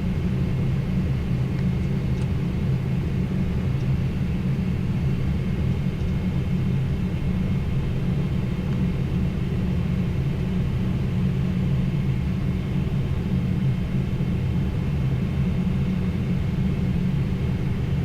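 Steady low rumble of airflow and engines heard inside a Boeing 777 flight deck on final approach, with a faint steady high whine above it.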